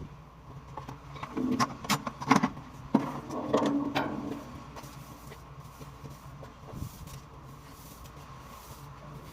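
A run of sharp knocks and clicks in the first half, over a steady low hum that carries on alone afterwards.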